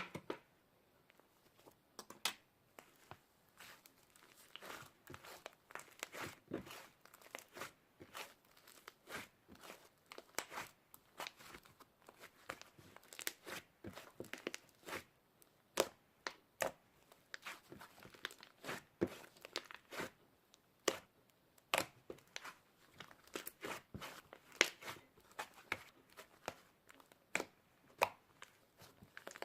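Cloud slime being stretched and pulled apart: a steady run of short, irregular crackling and tearing snaps, several a second.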